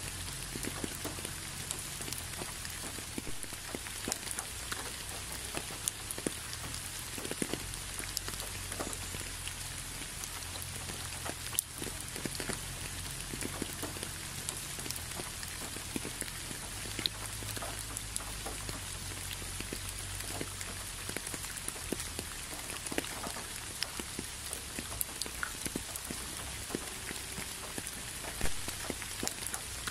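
Steady rain falling, with many separate drops ticking close by over an even hiss and a low rumble underneath.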